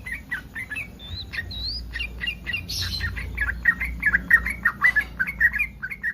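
Yellow-vented bulbul (trucukan) singing a rapid chatter of short, bubbly whistled notes that grows louder and quicker about halfway through. This is the excited song of a bird in breeding condition, the call used to draw other bulbuls into answering.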